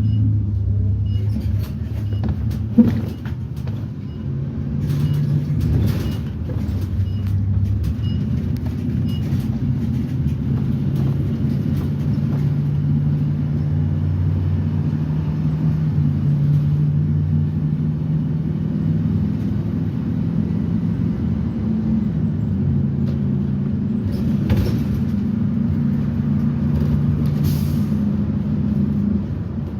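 2010 Blue Bird Vision school bus's propane-fuelled GM Vortec V8 running under way, heard with road rumble; its engine note steps up and down in pitch several times as the bus changes speed and the automatic transmission shifts. Short knocks and rattles come through now and then, the sharpest about three seconds in.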